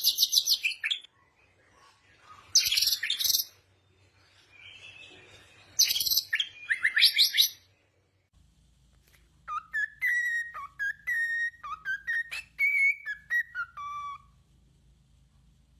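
Songbirds singing. First come three bursts of rapid, very high chirping trills. About halfway through, after a change in the background, a bird gives a series of clear whistled notes that slide up and down.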